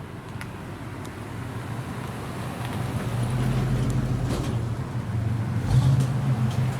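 An American car's engine running with a low, steady rumble that grows louder over a few seconds as the car draws near, loudest near the end.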